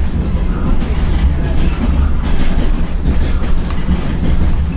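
A DR1B diesel multiple unit under way, heard from inside the passenger car: a steady low rumble with irregular clatter from the wheels and running gear on the rails.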